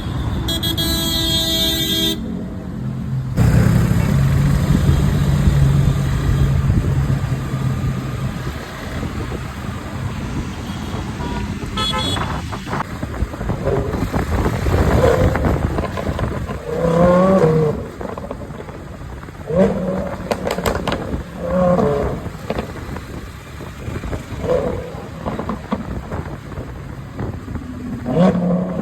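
A vehicle horn sounds for about two seconds, then engines keep running in road traffic, a steady low drone at first.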